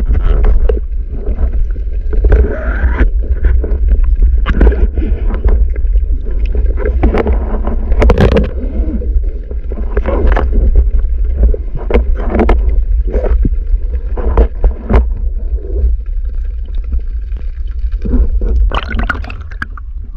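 Water gurgling and sloshing close to the microphone, with irregular knocks and scrapes and a steady low rumble throughout, as heard from a camera carried through the water on a spearfishing dive.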